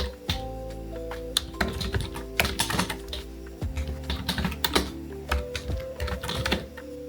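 Typing on a computer keyboard: irregular runs of key clicks, over background music.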